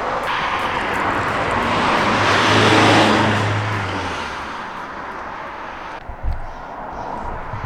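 Road traffic: a vehicle passes, its noise swelling to a peak about three seconds in and then fading, with a brief low thump near the end.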